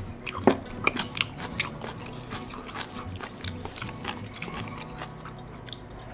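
Close-miked eating sounds: chewing with many small sharp clicks and taps, busiest in the first two seconds.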